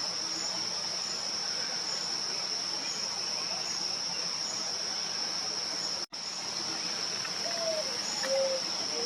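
Steady, high-pitched drone of insects, with a series of short, low whistled notes in the last second or two. The sound drops out briefly about six seconds in.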